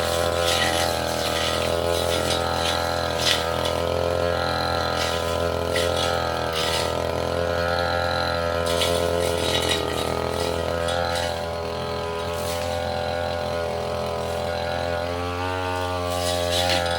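Tasco brush cutter's small engine running steadily under load, with scattered sharp hits as the blade cuts through undergrowth; the engine revs up near the end.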